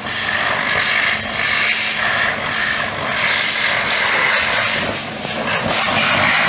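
High-pressure washer spraying, a steady hiss that swells and dips as the jet is swept, over the even hum of its motor.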